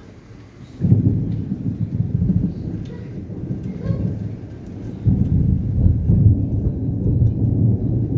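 Thunder: a deep rumble breaks in suddenly about a second in, rolls and eases, then swells again about five seconds in.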